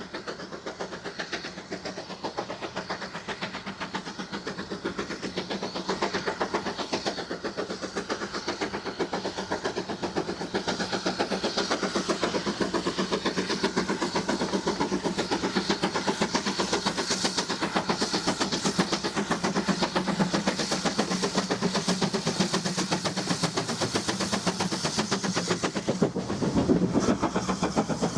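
Steam-hauled train running along the line with a fast, steady rhythmic clatter, getting louder over the first few seconds.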